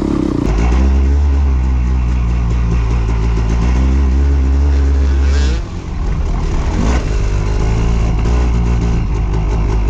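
Dirt bike engine running under throttle while riding. The engine briefly drops off a little over halfway through, as when the throttle is closed or a gear is changed, then pulls steadily again.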